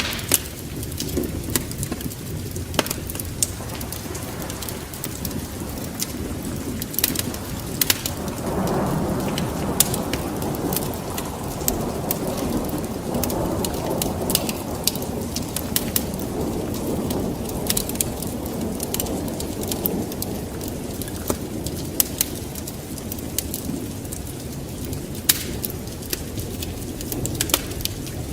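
Steady rain with a low, rolling rumble of thunder that swells about a third of the way in and slowly fades, with sharp scattered pops throughout.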